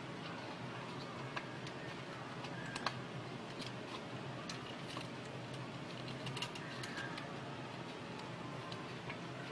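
Irregular light clicks and taps, a few sharper than the rest, over a steady low hum.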